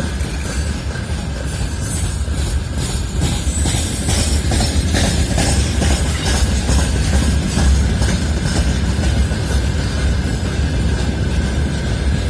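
Freight train rolling past at low speed: a steady low rumble with wheels clicking over the rail joints and a faint, steady wheel squeal.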